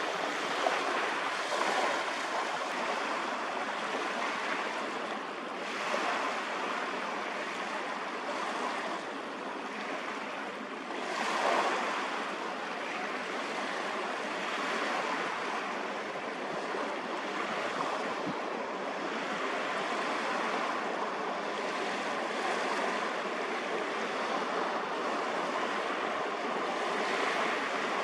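Steady rush of sea water and wind, swelling in short surges, the strongest about eleven and a half seconds in.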